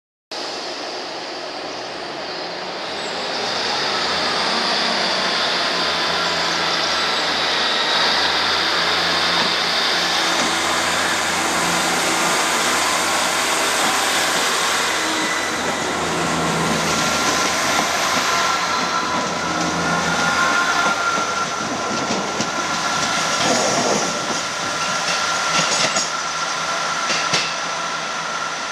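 Diesel multiple unit train running through a station, with a steady high-pitched squeal from the wheels or brakes and, in the last few seconds, a run of wheel clicks over rail joints.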